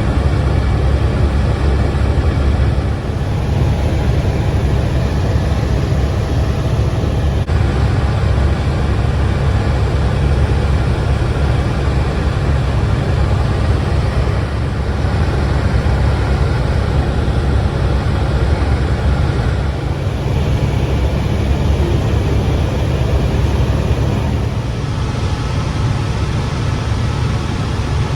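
Helicopter in flight heard from inside the cabin: a loud, steady low rumble of engine and rotor.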